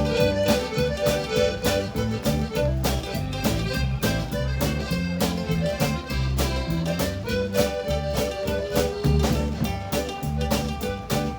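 Live band playing an instrumental break of a rock song, with no singing: drums keep a steady beat under the bass and a held lead melody.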